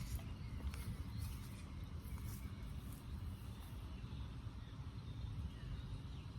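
Steady low rumble of background noise, with faint brief high hissy rustles in the first few seconds.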